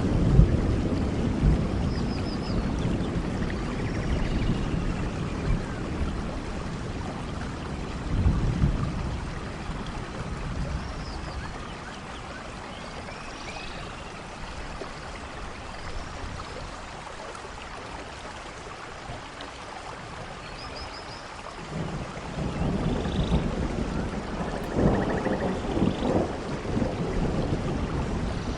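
Steady rain falling, with low rolls of thunder: loudest at the start, a short swell about eight seconds in, and another rumble building from about twenty-two seconds in.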